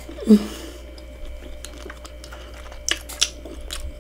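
A person chewing a mouthful of seafood close to the microphone, with a few sharp mouth clicks and smacks. A brief hum comes about a third of a second in.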